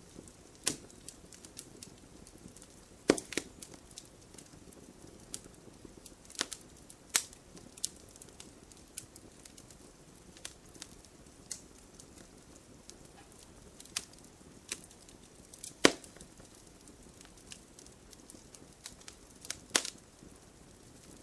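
Wood fire crackling: irregular sharp pops and snaps from burning wood over a low steady hiss, with a few louder cracks about 3, 7, 16 and 20 seconds in.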